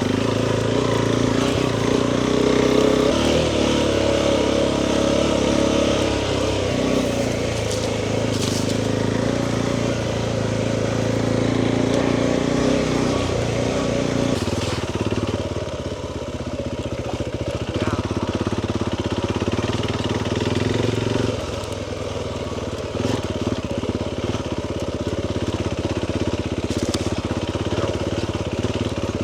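Motorcycle engine running at low speed while being ridden carefully on slippery ground. The engine note shifts a few times as the throttle changes.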